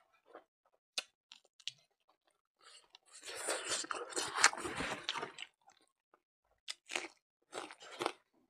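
Close-miked mouth sounds of a person eating rice with buffalo innards curry: chewing with a few sharp clicks. A dense stretch of chewing comes about three seconds in, and a handful of sharp mouth smacks follow near the end.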